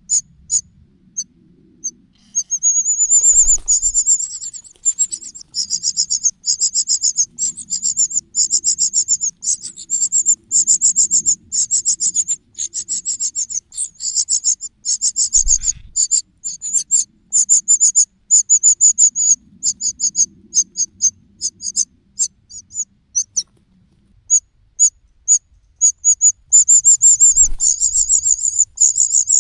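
A cuckoo chick's begging calls: a fast, unbroken run of short high-pitched notes. They break off for about a second near the end, then start again. There are a few faint low knocks as well.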